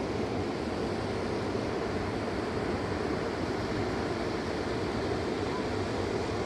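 Fast-flowing mountain river rushing, a steady, even noise.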